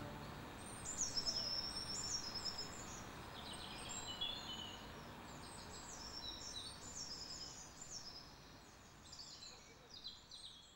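Songbirds chirping and calling in quick short notes over a steady hiss of outdoor ambience, the whole fading out toward the end.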